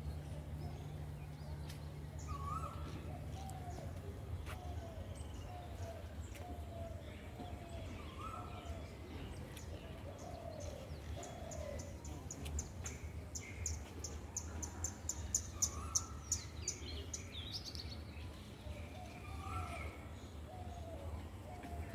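Birds calling outdoors: a short low call repeated about once a second, a higher single note every few seconds, and a fast, high-pitched run of notes about two-thirds of the way through.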